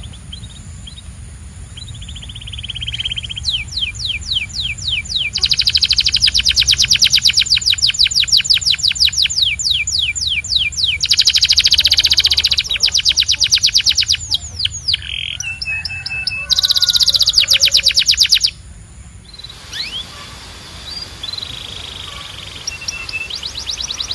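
Domestic canary singing: long, loud rolling trills of fast repeated down-slurred notes, with a sudden break about three-quarters of the way through into a few softer notes before a trill starts again.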